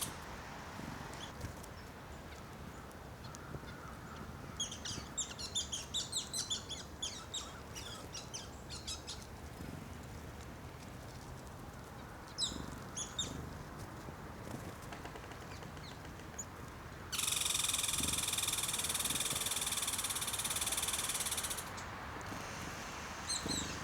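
Small songbirds chirping: a quick run of high, short chirps several seconds in and a few more a little later, over faint outdoor background. Later a louder, steady high hiss holds for about four seconds and then stops.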